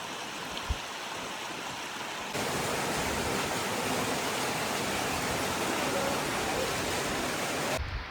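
Rushing water of a waterfall: a steady, dense hiss that steps up louder about two seconds in and cuts off near the end.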